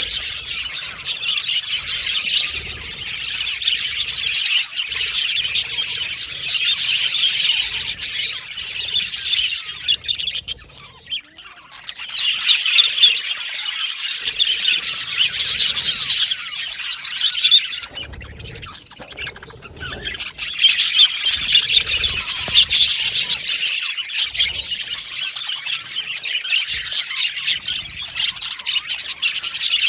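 Budgerigars chirping, warbling and squawking together in dense, fast chatter, with two short lulls, about ten and eighteen seconds in.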